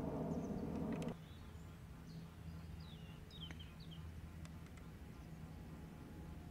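Small birds chirping in short falling notes over a low, steady outdoor background, with a few faint clicks, one of them a golf club striking the ball on a chip shot. About a second in, a louder low rumbling noise cuts off suddenly.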